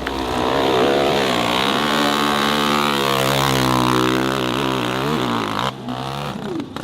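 Hill-climb dirt bike engine revving hard under load, its pitch wavering as it climbs, then cutting off suddenly near the end.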